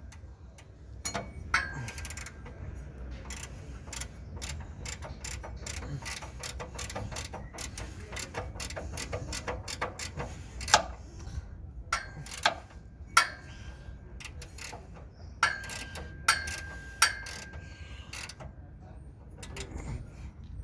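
Socket ratchet wrench clicking in quick runs as a bolt is tightened, with several sharp metal clinks that ring briefly.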